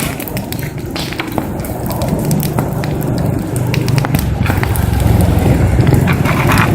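Wood fire crackling with scattered sharp pops, over a low steady rumble that grows louder about four seconds in.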